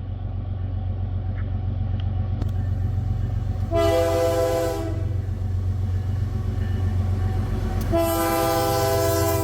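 Canadian Pacific diesel freight locomotive approaching with a steady low engine rumble growing louder, sounding its multi-note air horn twice: a blast of about a second, then a longer one near the end.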